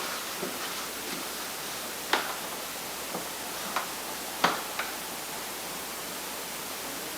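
Steady hiss of background noise, with four short light knocks and clicks: one about two seconds in, and three more between about four and five seconds in, the third of these the loudest.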